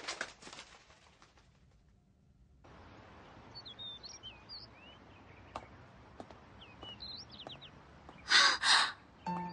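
Faint outdoor ambience with small birds chirping a few times, then a young woman's short breathy gasp in two parts near the end.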